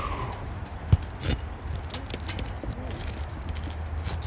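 Flat pry bar working under asphalt shingles to pull roofing nails: faint scrapes and clicks, with a sharp knock about a second in and a smaller one just after, over a steady low rumble.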